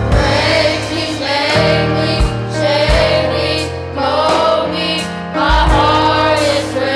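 Gospel music with a choir singing over bass and keyboard accompaniment.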